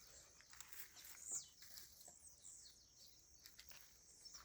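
Faint bird chirps, short falling notes now and then, the clearest about a second and a half in, over a quiet background with a faint steady high hum.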